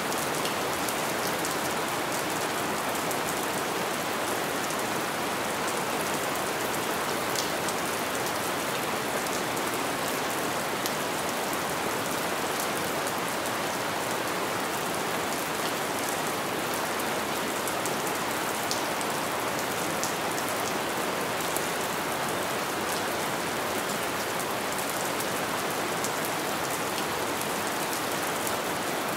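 Light rain falling steadily: an even, continuous hiss with scattered small drop ticks.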